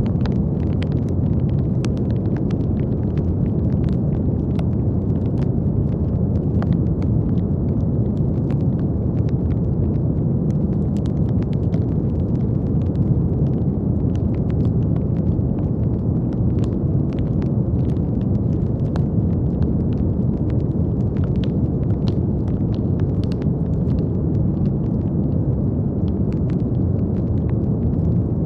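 Steady brown noise: a deep, even rushing hiss weighted toward the low end, with faint irregular crackling clicks scattered over it.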